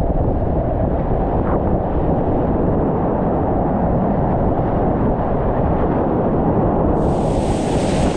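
Loud, steady roar of rushing whitewater, heaviest in the low end, with a brighter splashing hiss coming in about seven seconds in.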